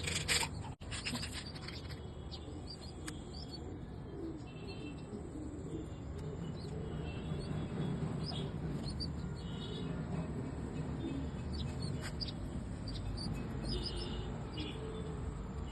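Short high bird chirps scattered throughout, over a steady low rumble, with a brief clatter at the very start.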